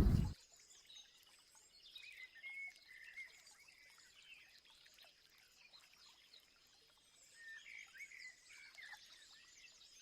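Faint bird calls: short chirps and whistles about two seconds in, and again in a cluster near the end, over a faint steady high-pitched tone.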